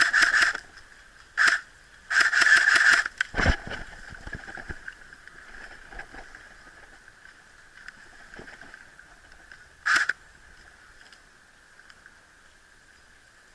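Airsoft electric rifle firing short bursts of rapid shots: a burst at the start, a brief one a second later, a longer one of about a second, then a single short burst near the end. A dull thump comes between them.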